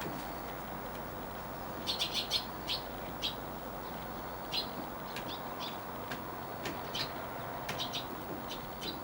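Short, high chirps from a small bird: a quick run of about five just after the two-second mark, then single chirps every half second or so. A steady low background hum runs underneath.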